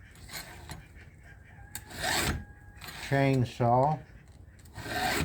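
A file in a steel chainsaw sharpener rasping across the cutters of a Husqvarna Rancher's saw chain in short strokes, the clearest one about two seconds in and another near the end.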